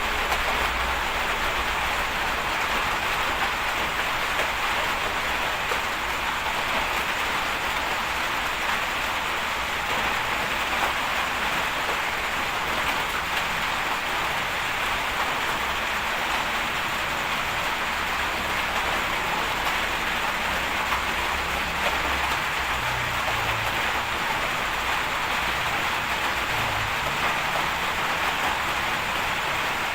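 Steady, dense hiss like heavy rain, with a faint low rumble that comes and goes beneath it.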